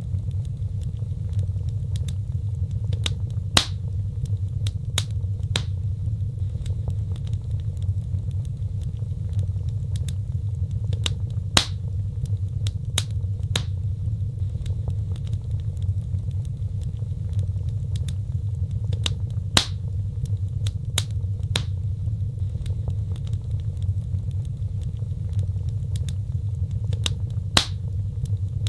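Wood fire burning: a steady low rumble of flames with scattered sharp crackles and pops of burning wood.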